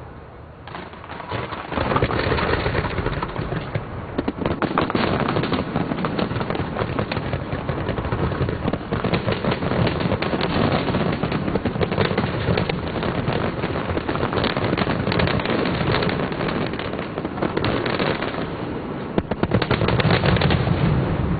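Large fireworks display: a dense, continuous barrage of bangs and crackling starting about two seconds in.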